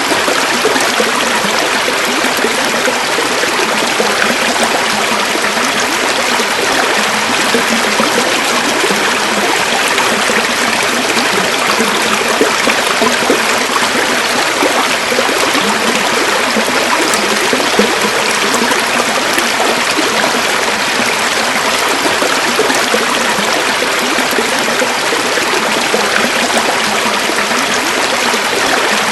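River or stream water running steadily over rocks: a constant rushing, babbling noise with no breaks.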